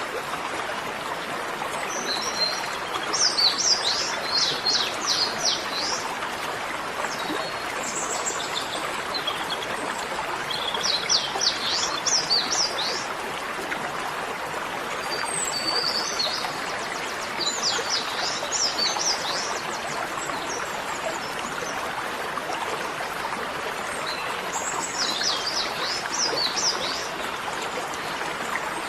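A songbird singing in four bouts of rapid, high chirping notes, each lasting a few seconds, over a steady hiss like running water.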